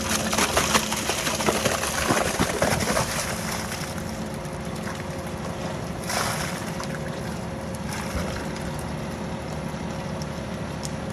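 Hydro vac truck's engine and hydraulics running steadily as the debris tank is raised for dumping, with crackling over the first few seconds and a brief hiss about six seconds in.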